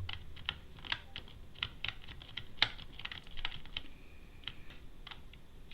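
Typing on a computer keyboard: a quick run of keystrokes that thins out to a few scattered key presses in the last couple of seconds.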